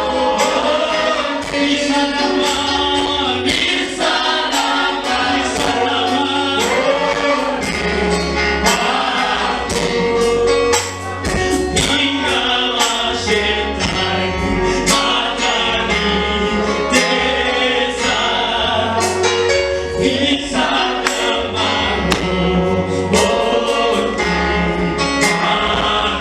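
Gospel music with a choir singing over a steady bass line and regular percussion hits.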